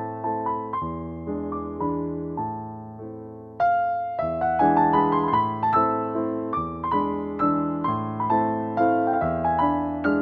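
Solo piano music at a gentle, slow pace: sustained bass notes under broken chords, each note struck and left to ring away, with a louder new chord about three and a half seconds in.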